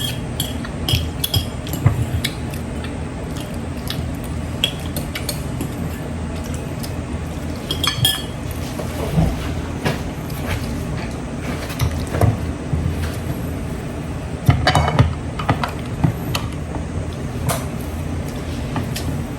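Forks and dishes clinking now and then during a meal, over a steady low hum.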